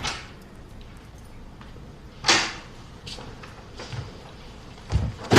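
Quiet room tone with two short swishing noises, one at the start and one about two seconds in, a few faint clicks, and a low thump near the end.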